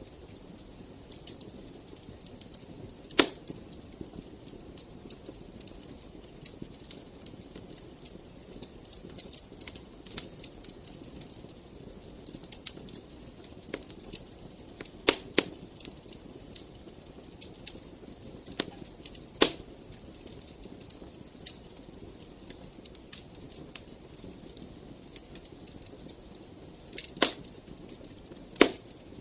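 Fire in a fireplace crackling: a steady low hiss with frequent small crackles and about five sharp, loud pops, one about three seconds in, two near the middle and two near the end.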